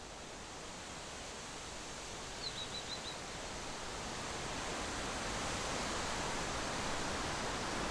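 Steady outdoor rushing noise that grows louder, with a small bird chirping four quick high notes about two and a half seconds in.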